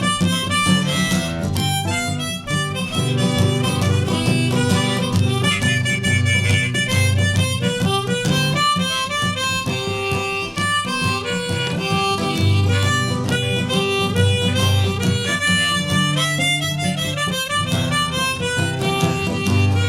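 A harmonica solo over strummed acoustic guitar, a blues-style instrumental break.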